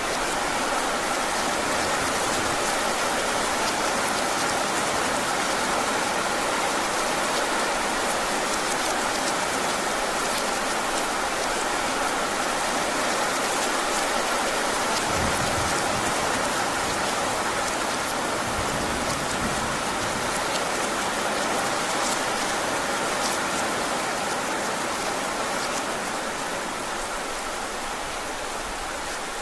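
Heavy rain falling steadily in a dense hiss with scattered drop ticks. A low rumble comes in about halfway through, and the rain eases slightly near the end.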